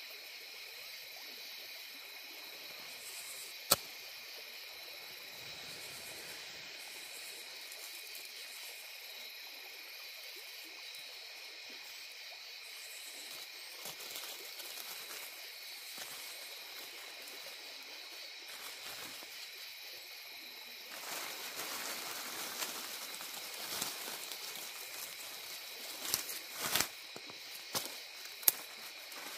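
Steady outdoor evening ambience: a continuous high insect chorus over faint river flow. From about two-thirds of the way in, rustling and a few sharp snaps and crackles of kindling as a campfire is started.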